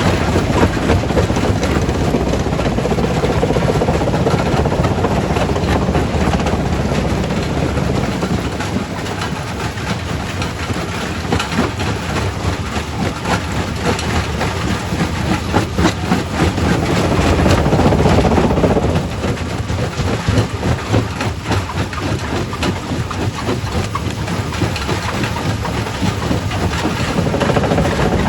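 Quarry primary rock crusher running: a steady heavy rumble with constant clattering of rock, swelling louder about two-thirds of the way through and again near the end.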